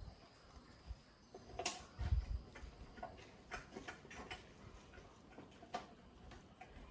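Irregular light clicks and taps of small hard objects being handled, with a dull thump about two seconds in.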